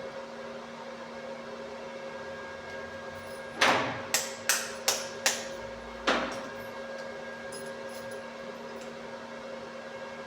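Six sharp hammer blows on metal, each ringing briefly: a quick run of five, the first the loudest, then one more a moment later. A steady electrical hum runs underneath.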